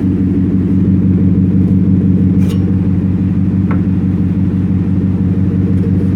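Ford F-150's 5.0-litre V8 idling steadily through a Roush side-exit catback exhaust, a deep even rumble with no revving, and two faint clicks in the middle.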